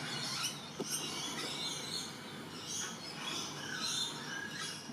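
Assorted wild birds chirping and calling, many short high calls overlapping.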